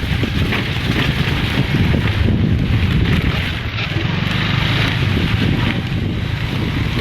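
Loud, steady wind noise buffeting the microphone over a low rumble, typical of recording on the move.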